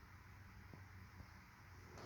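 Near silence: faint room hiss and low hum, with two soft ticks.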